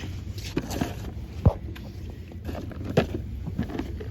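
Handling noise at a shop checkout: a few short, sharp knocks and clatters over a steady low hum, the loudest knock about a second and a half in and another at about three seconds.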